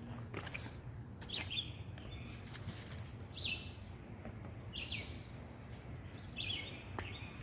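A songbird repeating the same short, high call about every second and a half, with a few sharp clicks and a low steady background hiss.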